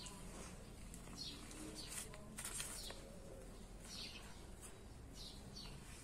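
Small birds chirping, short high calls that sweep downward, repeated every second or so. A brief rustle comes about two to three seconds in.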